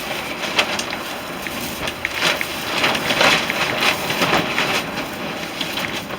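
Dry twigs and brittle, powdery mullein rustling and crackling as they are handled and pushed into a bundle of twigs, a run of irregular short rustles with several louder ones.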